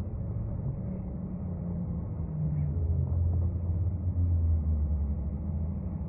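City transit bus in motion heard from inside: a steady low engine and road rumble that grows a little louder about halfway through.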